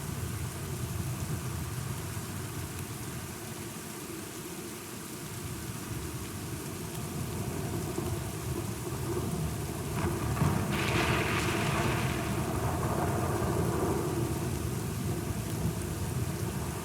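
Steady rain with a low rumble, and a thunderclap about ten seconds in that cracks and then rolls off over a few seconds.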